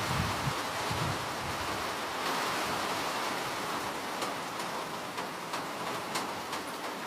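Steady rain falling, a dense even hiss with separate drops ticking here and there. A low rumble underneath fades out about a second in.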